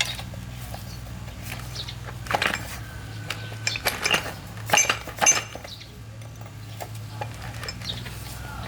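Metal tools or parts clinking and knocking against each other in a handful of sharp, ringing strikes, over a steady low hum.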